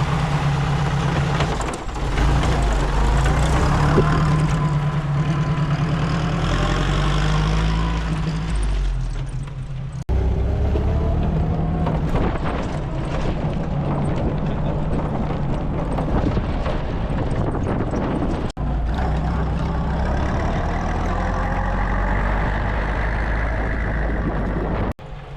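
Engine of a 1923 pre-war Vauxhall running under way, rising in pitch as it pulls up through the revs. The sound breaks off and restarts sharply twice.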